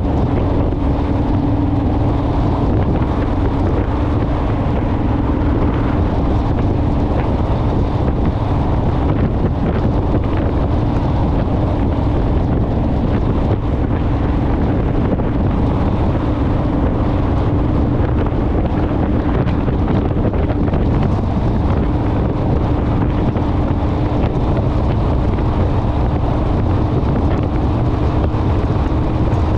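Wind buffeting the microphone on a moving Honda Rebel motorcycle, over the steady drone of its engine at cruising speed.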